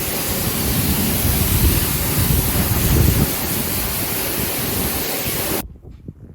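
Pressure washer jet rinsing cleaner and brake dust off a car's alloy wheel and tyre, a loud steady spray of water that cuts off suddenly near the end.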